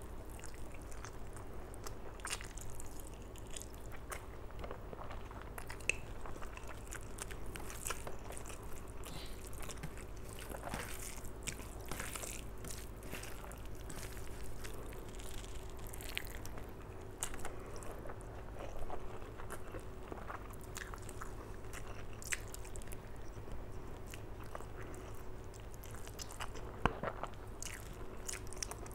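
Close-miked eating sounds of a person chewing mouthfuls of rice and mutton curry eaten by hand: wet chewing, lip smacks and irregular small clicks, over a faint steady hum.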